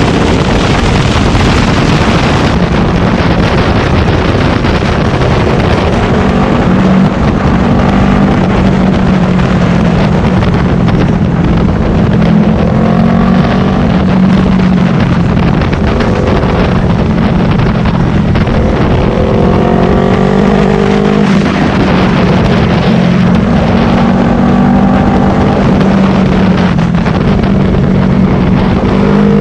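Yamaha R3's parallel-twin engine running at speed, its pitch rising several times as it accelerates, under heavy wind noise on the microphone.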